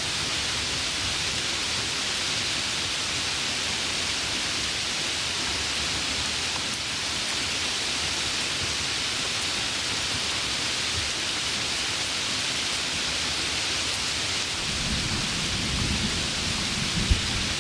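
Heavy rain falling steadily in an even hiss. About fifteen seconds in, a low thunder rumble builds, with a couple of sharp cracks near the end.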